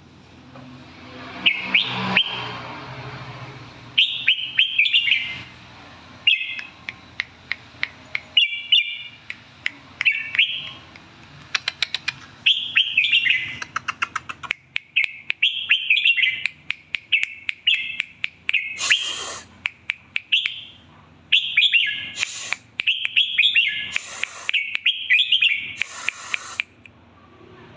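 Red-whiskered bulbul singing short, warbled phrases over and over, a new phrase every second or two. Sharp clicks come between the phrases, and a few brief rushing bursts come in the second half.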